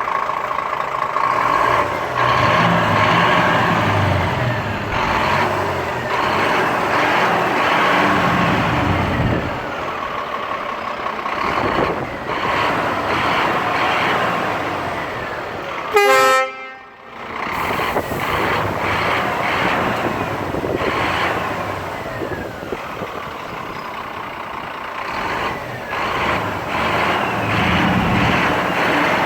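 Scania G460 truck running, its engine note rising and falling, with a single short horn blast just over halfway through that is the loudest sound and stops abruptly.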